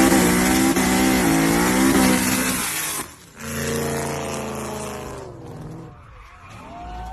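Car engine at full throttle under hard acceleration, its pitch dipping twice. After a short break about three seconds in, an engine runs high again and drops slowly in pitch, fading as the car pulls away.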